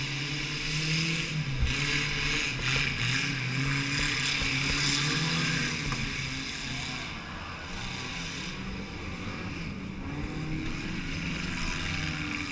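Small-car engine running and revving unevenly in a demolition derby car, heard from inside the car, with one sharp knock about a second and a half in.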